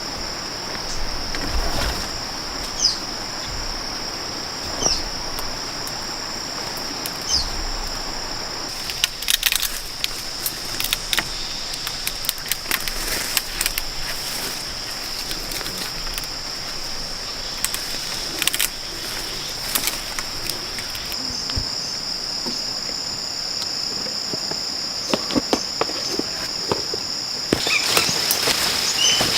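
Rainforest insects droning in one steady high-pitched tone, with a few short chirps in the first seconds. Clusters of sharp clicks and knocks come and go over it, the loudest around the middle and near the end.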